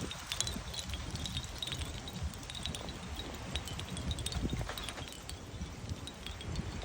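Hanging seashell wind chimes clinking in the wind: many small, light, irregular clicks, over a low rumble of wind.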